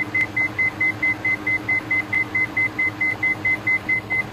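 Cockpit aural warning in a Diamond DA42 NG twin: a high, rapid beep repeating about six times a second, over the steady drone of the engines, sounding during a simulated engine failure.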